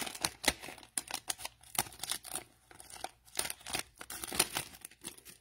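Cellophane wrapper of a trading-card cello pack being torn open and crinkled, with the cards being handled: many irregular crackles and snaps that thin out near the end.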